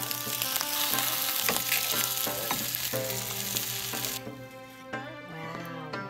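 Grilled rice balls sizzling in an oiled frying pan as sauce is spooned over them. The sizzle cuts off abruptly about four seconds in.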